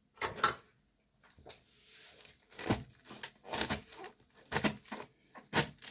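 Knife hacking into a whole head cabbage on a cutting board: about eight sharp, irregular knocks with faint crunching between them, as the tough cabbage resists being split.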